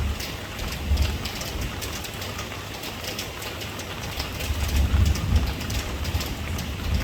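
Steady rain falling, with many individual drops striking a surface over it, and a low rumble underneath that swells briefly about a second in and again around five seconds in.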